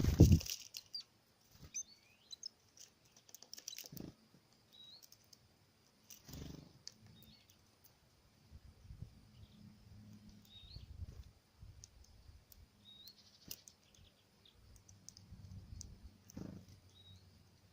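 Tits at a feeder giving short, high chirps every few seconds, mixed with light tapping and clicking from birds pecking and hopping on the feeder. A loud knock comes at the very start.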